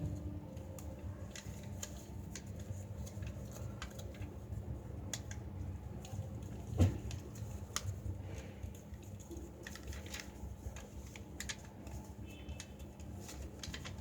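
A sheet of paper being folded and creased by hand: scattered soft crinkles and taps, with one louder short thump about seven seconds in.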